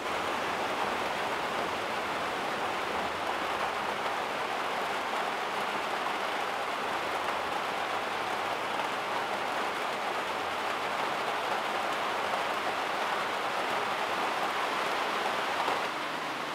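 Steady rain falling, an even hiss with no break, dropping a little in loudness near the end.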